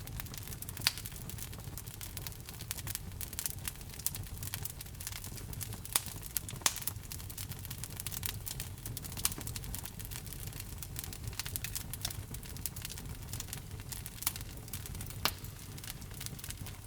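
Wood fire burning in a fireplace: a steady low rumble of flames with frequent small crackles and a few sharper pops.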